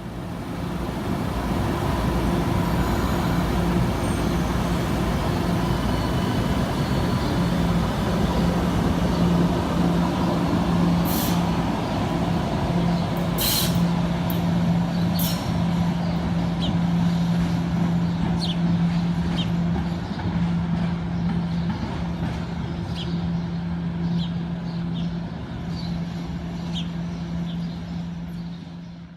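MBTA Green Line light-rail train running through the station, with a steady electric hum over a low rumble. A few sharp high-pitched noises come about 11 and 13 to 15 seconds in, then lighter clicks.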